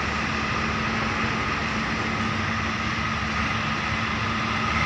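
Diesel tractor engine running steadily at a constant speed, with no revving.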